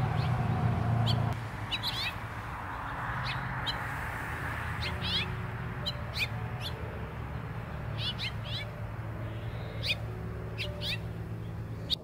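Small songbirds chirping: short, high calls, some in quick runs of two or three, repeated every second or so over a steady low rumble that is louder for about the first second.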